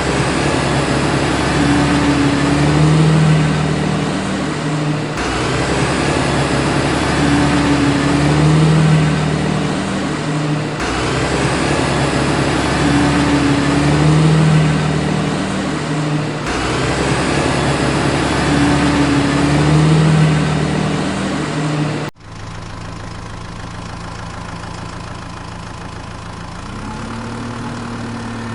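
Vehicle engine running, a loud pattern repeating about every five and a half seconds, then cutting off suddenly at about 22 seconds to a quieter, steady idle that rises slightly in pitch near the end.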